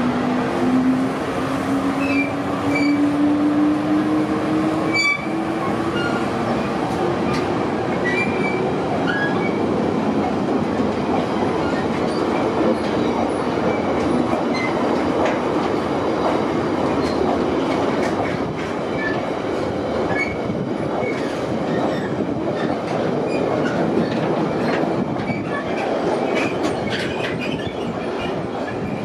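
Train running along the track: a steady rumble of wheels on rail with brief high wheel squeals and clicks over the rail joints. A whine rises steadily in pitch over the first eight seconds or so.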